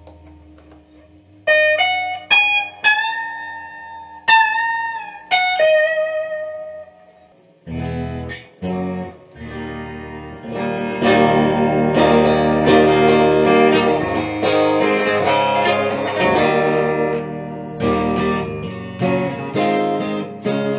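3D-printed Stratocaster-style electric guitar with a PLA body and 9-gauge strings tuned down a half step, played: a handful of single picked notes left to ring, then from about eight seconds in, chords strummed repeatedly.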